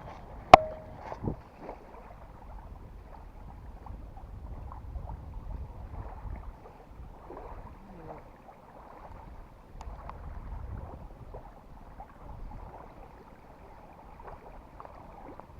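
Wind buffeting the microphone in low rumbling gusts, over water lapping and splashing at the bank. There is one sharp knock about half a second in.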